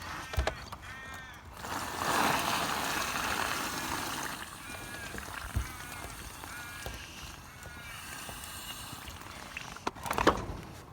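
Birds calling in groups of short, repeated arched calls, over a broad rush of outdoor noise that swells about two seconds in and fades.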